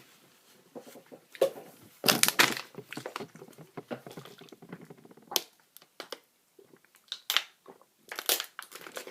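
Crisp wasabi seaweed snack being broken and chewed, making irregular crackly crunches. There is a dense run of them about two seconds in, then a few single sharp cracks with quiet gaps between.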